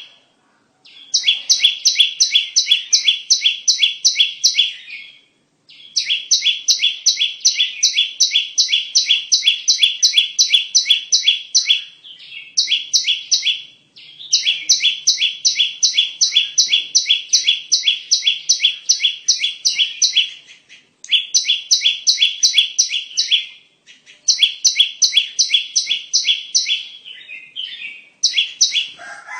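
Bar-winged prinia (ciblek) calls used as a bird lure: rapid, evenly repeated high chipping notes, about five a second, in phrases of several seconds broken by short pauses.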